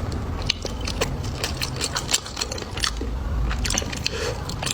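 Close-miked eating: chewing and biting with many sharp, crunchy clicks in an irregular run.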